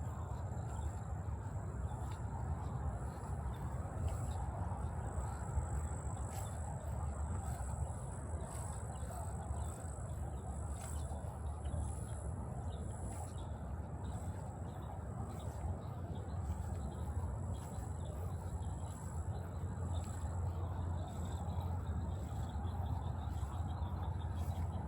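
Steady high-pitched chorus of insects such as crickets, holding two even tones, with a low rumble underneath that grows near the end.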